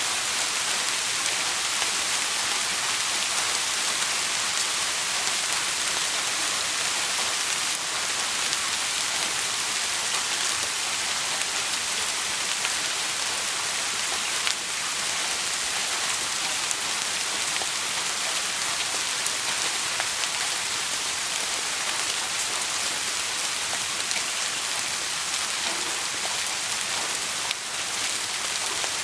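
Steady rain falling, a dense even hiss with a few faint ticks scattered through it.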